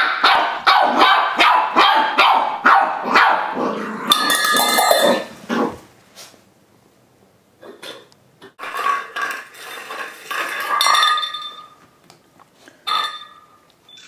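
Irish Terrier puppy barking rapidly and repeatedly for the first few seconds, then her food bowl scraping and clattering with a ringing tone in several bouts as she plays with it.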